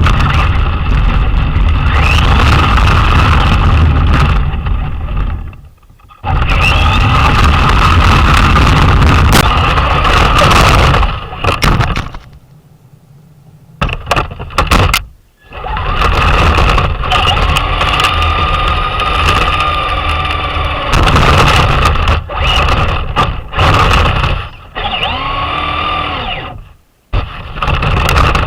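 Traxxas Slash RC truck driving, heard from a camera mounted on it: a loud rumble of the chassis and tyres over the ground with a motor whine that rises and falls with the throttle. The sound drops away briefly three times, longest in the middle.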